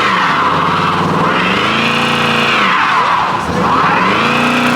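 Car engine revving hard, its pitch climbing, dropping briefly past the middle and climbing again, with the tyres spinning and squealing as the car performs in the meet's pit.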